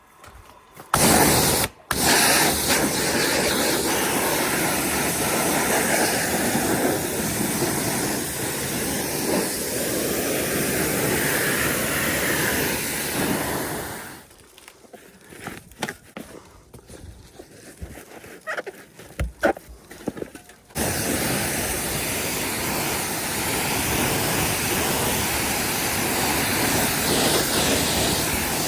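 A steady spraying hiss that runs for about thirteen seconds, stops for several seconds with a few scattered clicks and knocks, then starts again.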